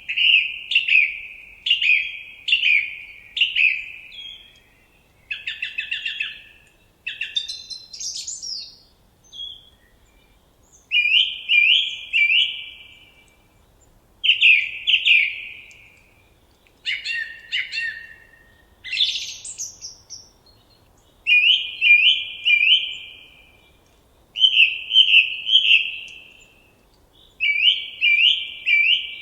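A songbird singing in short phrases of several quick, falling chirps, each phrase lasting a second or two and repeated after a brief pause, with a few more varied phrases in between.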